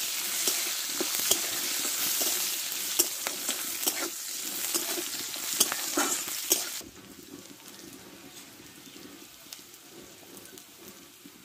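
Sliced onions, dried red chillies and bay leaf sizzling in hot oil in a metal karai, with a flat metal spatula stirring and scraping against the pan in scattered clicks as the onions brown. About two-thirds of the way through, the sizzle drops abruptly to a quieter, steady hiss with no stirring.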